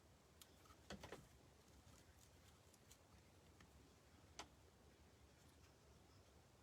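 Near silence: room tone, with a few faint clicks about a second in and one more a little past four seconds.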